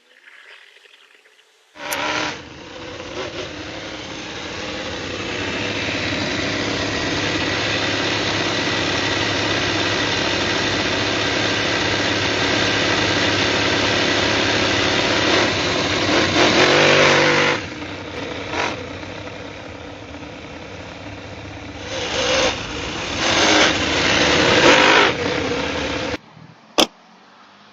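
Fuel-burning engine of a large-scale RC car starting about two seconds in and running steadily, revved up briefly a few times in the second half. It shuts off suddenly near the end, followed by one sharp click.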